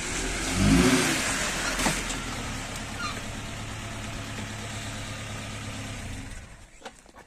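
Old Paykan car's engine revving once briefly, then idling steadily, and cutting off about six seconds in.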